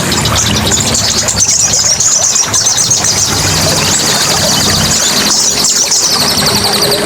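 A dense chorus of many songbirds chirping and trilling at once, with quick repeated high notes, over a steady hiss.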